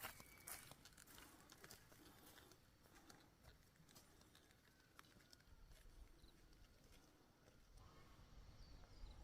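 Near silence: faint background hiss with a few soft clicks in the first couple of seconds.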